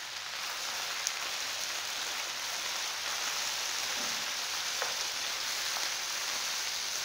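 Chopped spinach frying in hot oil over browning onions and garlic, with a steady sizzle as it is stirred with a wooden spoon. A few faint ticks of the spoon against the pan.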